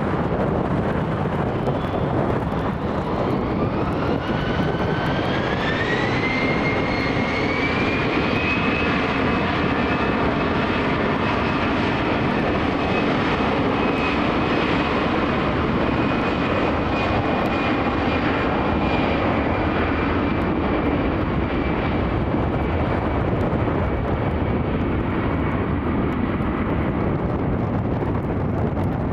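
Airbus A320 jet engines spooling up for takeoff: a whine rises over about five seconds, then holds steady over a loud, even engine roar at takeoff thrust.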